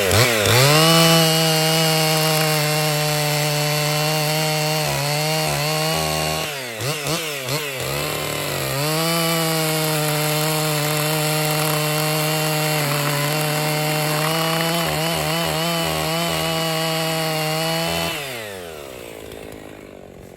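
Husqvarna 55 two-stroke chainsaw revved up and held at full throttle cutting through a log, with a few quick throttle blips about a third of the way in before it goes back to full speed. Near the end the throttle is released and the engine drops back toward idle.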